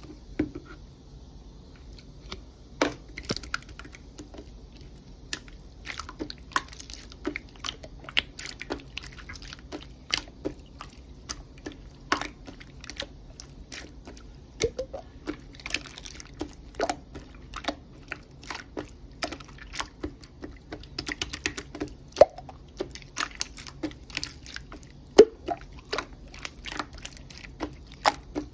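Slime being played with by hand, giving off irregular sticky clicks and small pops, several a second.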